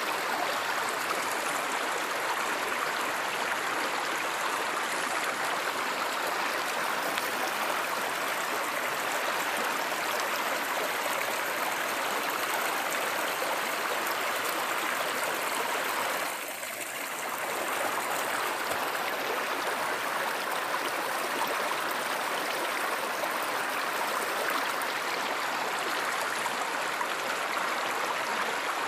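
Stream water flowing steadily over rocks, an even rushing and burbling. It goes briefly quieter a little past halfway.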